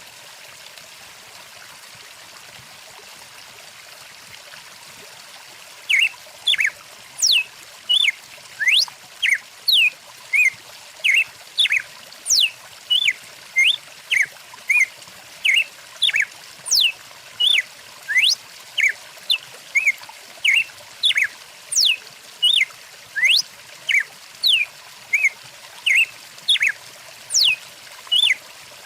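A stream running steadily. About six seconds in, a bird begins a fast, regular series of loud short chirps and quick whistles sweeping down in pitch, about one and a half a second, and keeps it up.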